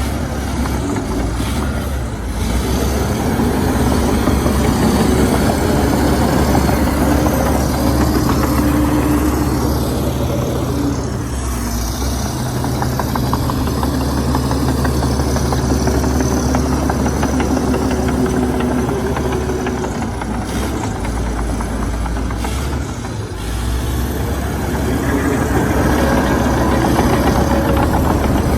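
Heavy diesel engine of a Komatsu D61EX crawler bulldozer running steadily. It swells about two seconds in and dips briefly late on.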